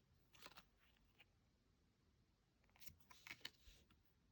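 Near silence with a few faint rustles of Pokémon trading cards being slid and handled, once about half a second in and again in a short cluster around three seconds.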